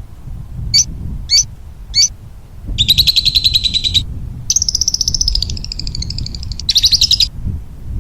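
A small songbird singing: three short high chirps about half a second apart, then a series of fast, rattling trills.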